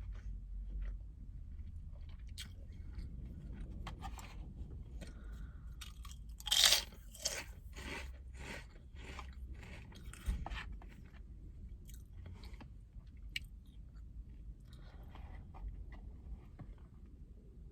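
A person biting and chewing crunchy food close to the microphone: one loud crunch about six and a half seconds in, then a quick run of crunching chews for a few seconds, with scattered softer crunches before and after. A steady low rumble sits underneath.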